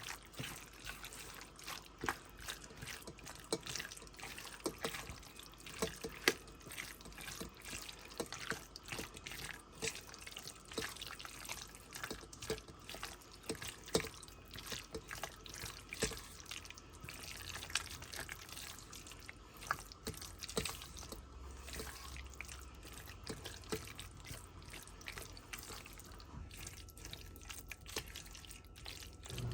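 A utensil stirring a thick, wet filling of canned chicken, mixed vegetables and cream of mushroom soup, giving soft squelches and small irregular clicks against the container.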